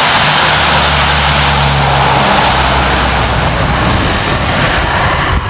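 Engines of a large military transport aircraft running loud, a dense steady roar with a low drone underneath through the first half.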